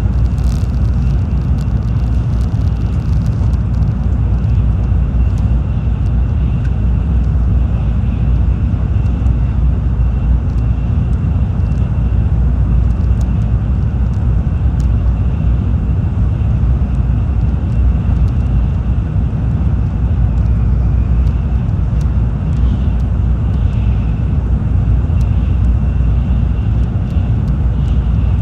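Tokaido Shinkansen train running at speed, heard inside the passenger car: a steady low rumble of running noise with a faint, steady high whine above it.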